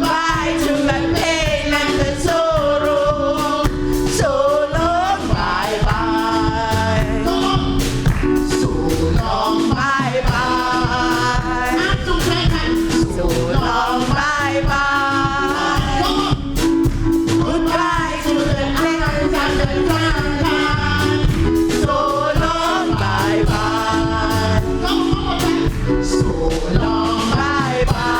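Gospel singing performed live with instrumental accompaniment: voices sing with vibrato over a sustained low accompaniment and a steady beat.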